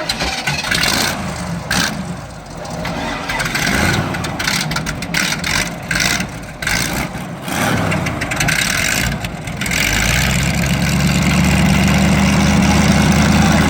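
Twin-engine airboat's engines starting up abruptly, revving up and down, then running steady and louder from about ten seconds in, with propeller wash and wind noise over them.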